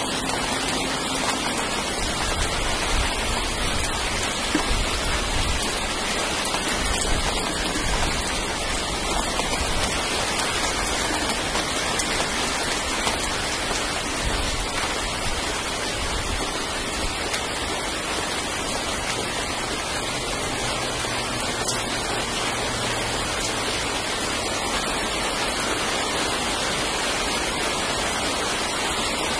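Steady hiss of rain falling during a thunderstorm, with a low rumble that comes and goes in the first third.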